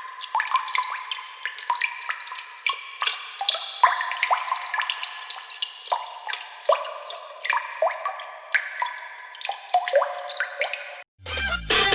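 Water droplets dripping: many irregular plinks, several a second, each a short rising tone. They stop shortly before the end, where a brief different sound begins.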